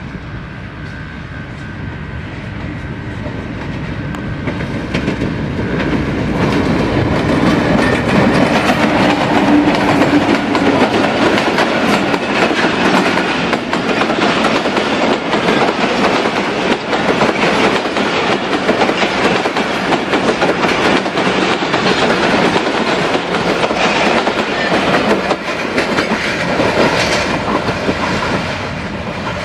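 Millat Express passenger train, hauled by a PHA-20 diesel-electric locomotive, passing close by. The locomotive's engine hum grows louder over the first several seconds and goes by about ten seconds in. After that the coaches' wheels rattle steadily over the rail joints, easing slightly near the end.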